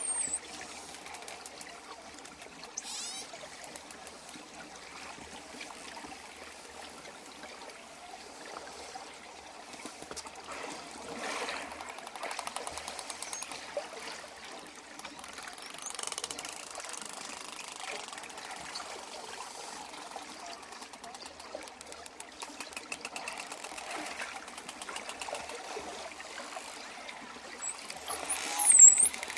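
Dolphins underwater: runs of rapid clicks and occasional high, gliding whistles over a steady watery hiss, with the loudest whistles near the end.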